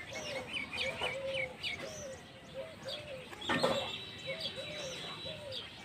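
Birds calling: a string of short, low, repeated calls under high chirps. About halfway through, a brief clatter is followed by a steady high whistle lasting nearly two seconds.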